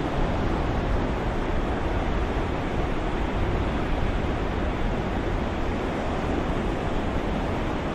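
Ocean surf as a steady white-noise soundscape: a continuous wash of waves with no distinct breaks or crashes.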